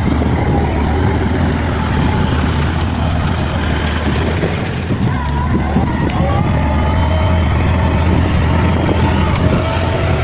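Bulldozer's heavy diesel engine running steadily at work.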